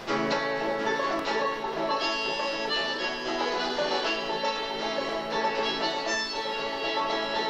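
Irish folk band playing live, all the instruments coming in together at once on the opening of a tune.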